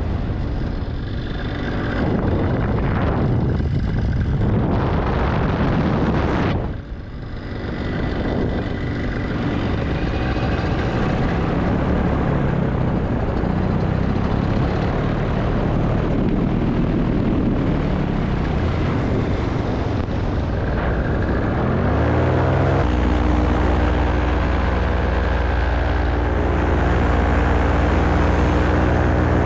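Paramotor engine and propeller in flight, with heavy wind rush on the microphone for the first two-thirds. About 21 seconds in, the engine revs up, rising in pitch, then runs steadily at high throttle.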